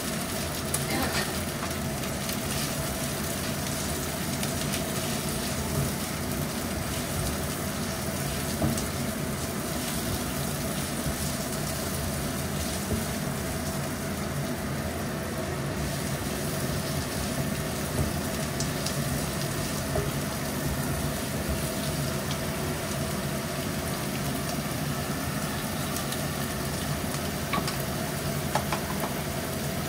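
Chopped bell peppers sizzling in oil in a nonstick wok, a spatula stirring and scraping through them now and then. A steady hum runs underneath.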